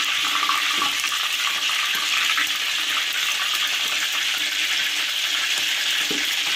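Battered shrimp deep-frying in hot oil in a wok: a steady sizzling hiss, with a couple of light knocks and scrapes from the spatula turning the pieces.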